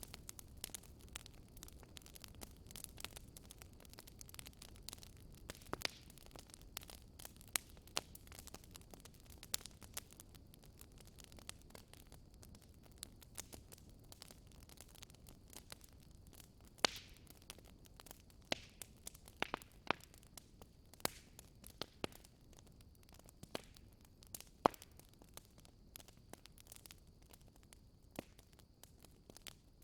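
Wood fire in a fireplace crackling: sharp, irregular pops and snaps over a faint low rumble of flame.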